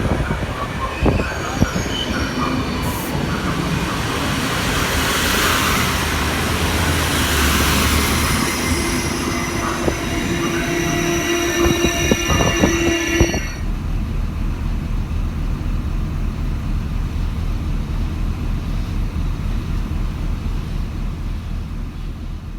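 Train running on the rails, its wheels squealing with scattered clicks over rail joints. About thirteen seconds in, the squeal stops suddenly and a low steady throb remains.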